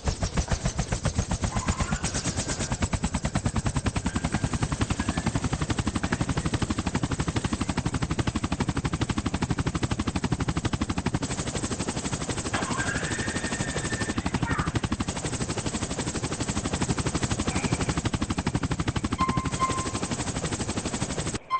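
Small 3.5-channel RC helicopter's electric motors and rotors running, a fast, even chop of the blades with a motor whine; it stops abruptly near the end.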